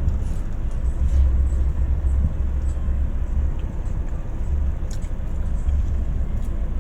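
A low, steady rumble with uneven swells.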